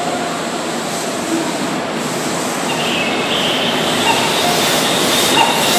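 Keihan 2400-series electric train running into the platform, its wheels rumbling on the rails as the cars pass. High squeals come and go from about halfway through.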